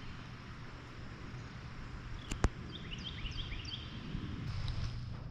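A bird calling a quick series of short, high, falling chirps over steady outdoor background noise, just after a single sharp click about two and a half seconds in.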